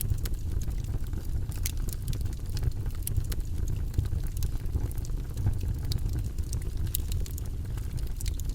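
Wood campfire crackling: scattered sharp pops and snaps over a steady low rumble.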